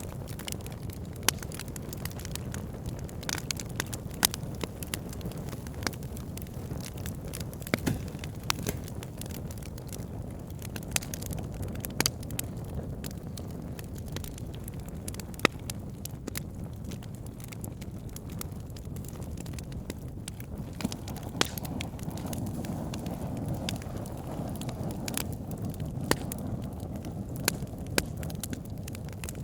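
Wood fire burning: a steady low rumble of flames with frequent sharp crackles and pops from the logs, a few of them louder than the rest.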